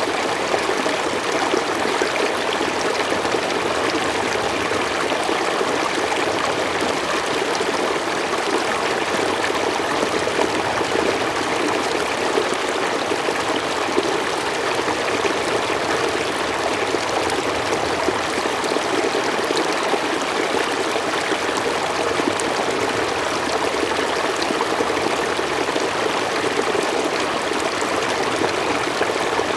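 Mountain stream flowing steadily over rocks, an even rushing and trickling of water with no breaks.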